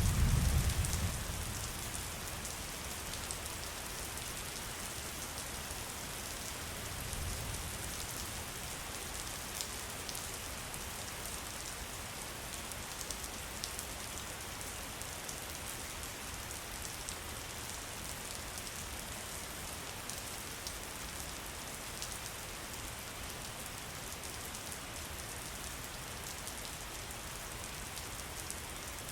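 Steady rain with many small drops ticking, and a low rumble of distant thunder at the start and again, fainter, about seven seconds in.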